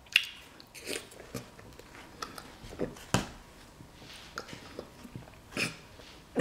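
Close-up mouth sounds of someone chewing juicy fruit, a bite of watermelon: irregular wet smacks and clicks, one louder about halfway through.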